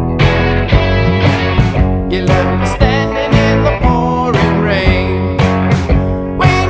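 Rock song with electric guitar, bass and a steady drum beat. A singing voice comes in about two seconds in.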